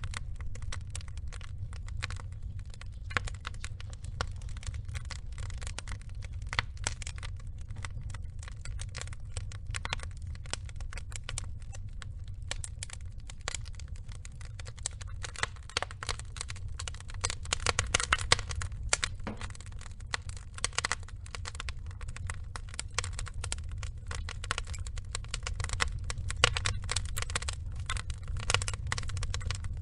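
Logs burning, with dense irregular crackles and pops over a steady low rumble. The crackling thickens a little past the middle and again near the end.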